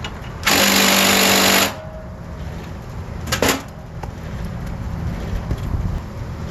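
A handheld power tool runs in one burst of just over a second, then a brief second burst about three seconds in, over a steady low rumble.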